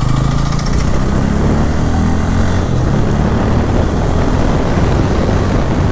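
Bajaj Pulsar N160's single-cylinder engine running steadily as the motorcycle is ridden, over a constant rushing noise.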